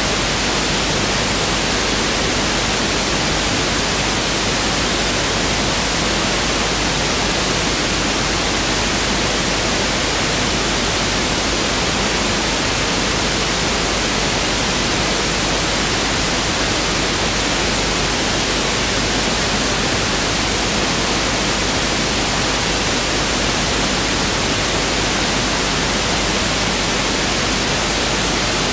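Pink noise (1/f) test signal: a steady, unchanging hiss spread evenly across the whole range, with no breaks.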